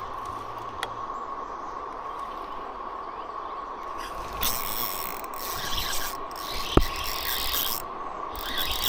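Fishing reel being cranked in spells as a lure is retrieved: a mechanical whirring with ratchety clicks, busiest in the second half.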